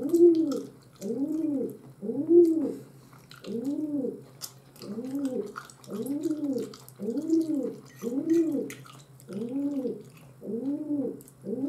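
A bird cooing over and over, about one call a second, each coo rising and then falling in pitch.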